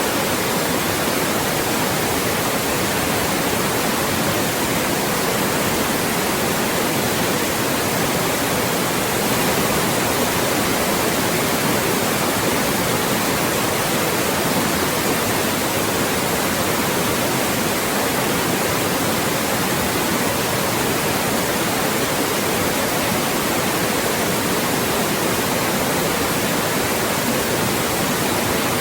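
Loud, steady white noise, an even hiss across the whole range with no changes, played continuously as a speech-masking sound.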